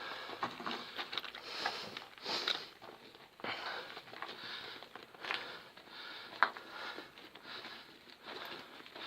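Footsteps shuffling and crunching over rubble and grit while moving crouched: a steady run of scrapes and small clicks, with one sharper click about six and a half seconds in.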